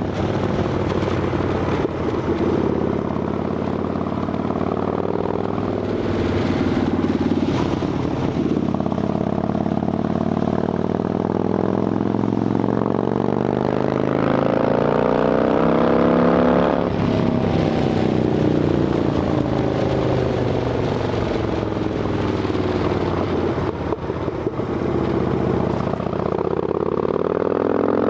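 Harley-Davidson Dyna Fat Bob V-twin running through Vance & Hines Shortshots exhaust with quiet baffles. The engine note climbs slowly as the bike accelerates, drops suddenly a little past the middle, winds down, then climbs again near the end.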